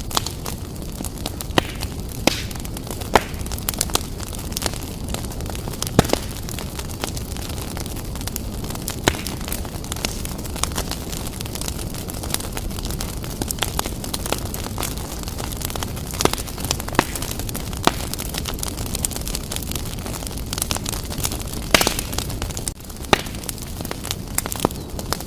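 Wood fire burning in a fireplace: a steady low rumble of flames under irregular sharp crackles and pops.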